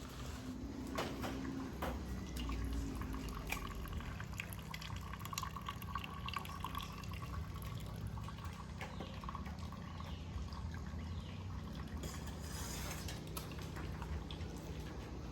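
Coffee being poured and served into cups: a trickle of liquid with dripping and small clicks and clinks.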